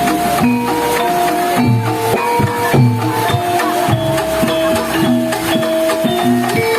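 Javanese gamelan playing without singing: struck metal notes ringing on in a steady pattern over regular low hand-drum strokes that dip in pitch.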